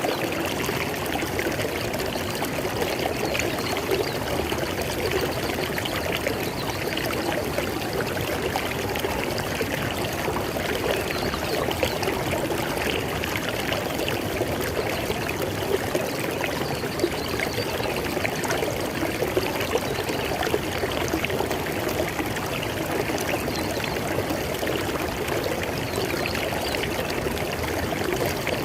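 River water flowing steadily, a continuous even rush and babble.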